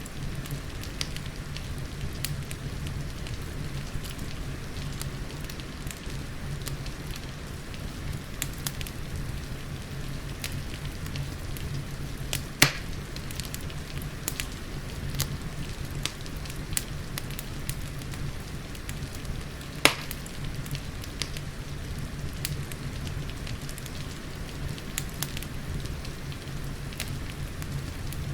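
Wood fire crackling in a fireplace, with steady rain and a low rumble underneath. Small crackles come throughout, with two louder pops, one about twelve seconds in and one near twenty seconds.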